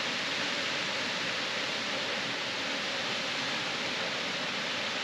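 Rainbow Falls, a large waterfall, rushing steadily close by as an even, unbroken roar of falling water.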